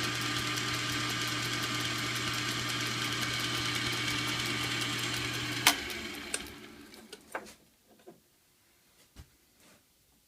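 A small machine tool's electric motor running steadily with a constant hum. It is switched off with a sharp click a little past halfway and spins down over about a second. A few light clicks and taps follow.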